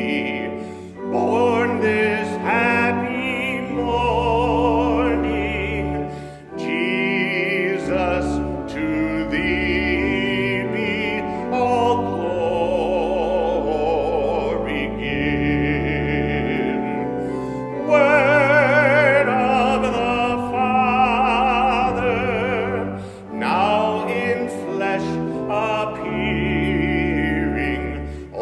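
Operatic-style singing with wide vibrato over instrumental accompaniment, with long held notes.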